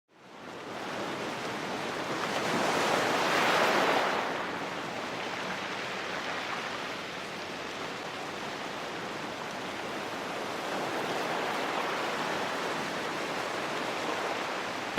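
A steady rushing noise like wind or surf, swelling briefly about three seconds in and then settling.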